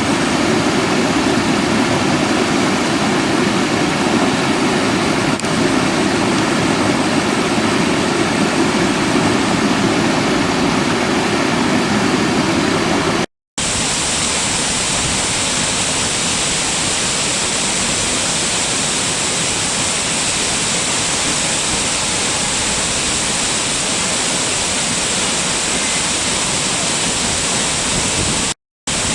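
Running water rushing steadily, as from a stream or waterfall. It cuts out briefly about halfway through and again near the end; after the first break the rush is brighter and hissier, with less of the deep body it had before.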